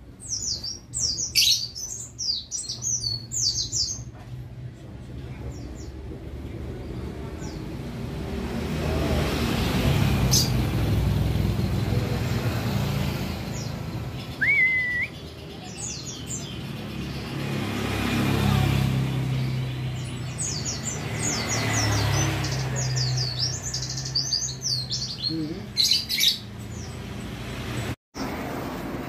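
White-eye (pleci) chirping in quick, high twittering bursts near the start and again near the end. In between, road traffic passes twice, a low rumble that swells and fades.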